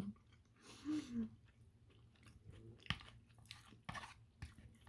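A person chewing a mouthful of microwaved TV-dinner food softly, with small wet mouth clicks and one sharper click about three seconds in.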